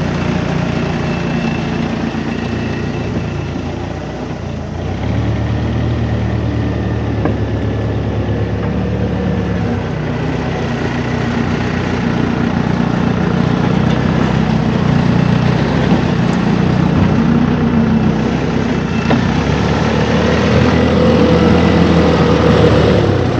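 Engine of a heavy yard vehicle running steadily, shifting to a different speed about five seconds in and again near twenty seconds. It is likely the machine moving a junked car into the line.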